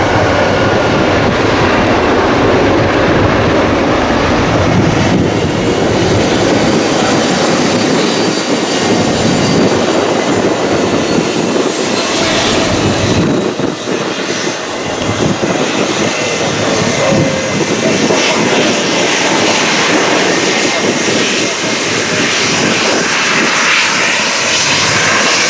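Jet airliner engines running loud and steady as the plane passes, with a brief drop in level about halfway through.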